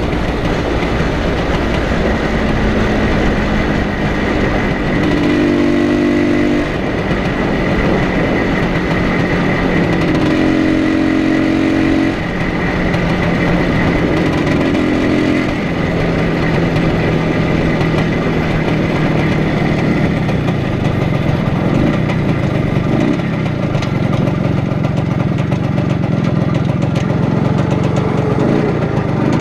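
1980 IZh Planeta Sport 350's single-cylinder two-stroke engine running under way. Its pitch steps up and down several times in the first half as revs and gears change, then holds steadier, over a constant rush of riding noise.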